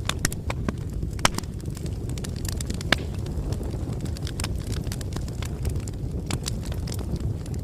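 Campfire burning: a steady low rumble of flames with irregular sharp crackles and pops. The loudest pop comes about three seconds in.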